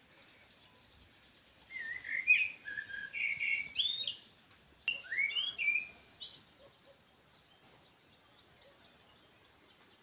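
A songbird singing two short phrases of quick, high chirping notes that slide up and down in pitch, the first starting about two seconds in and the second about five seconds in.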